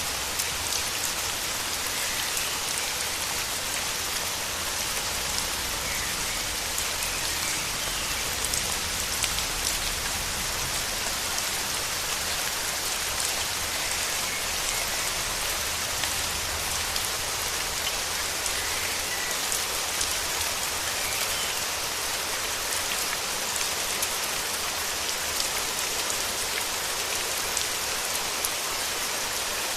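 Steady rain falling, with individual drops ticking close by throughout.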